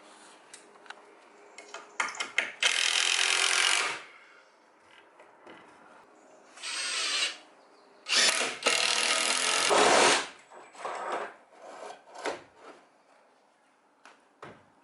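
Power drill driving screws into the roof timbers in three runs, about two seconds, then a short one, then another two seconds, with knocks and clatter in between.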